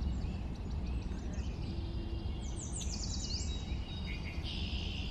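Birds chirping and calling over a steady low rumble, with a quick run of falling chirps about two and a half seconds in and a short buzzy trill near the end.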